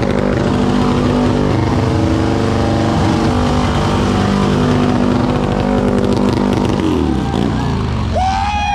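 Motorcycle engines running steadily at low revs; near the end the engine note drops.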